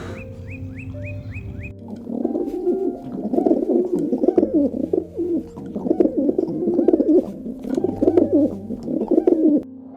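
A bird cooing in repeated bouts of low, wavering calls, starting about two seconds in. Before that, a quick run of high chirps.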